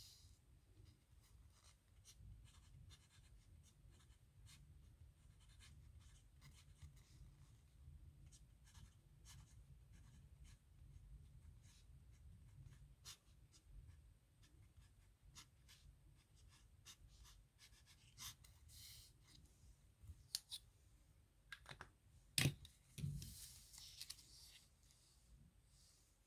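Pen scratching on paper in many short, faint strokes as characters are handwritten. About 22 seconds in there is a sharp knock, the loudest sound, then a thump and some rustling.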